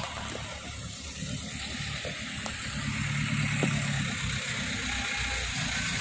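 A motor vehicle's engine running, a low steady hum that grows a little louder from about halfway through, over a steady hiss.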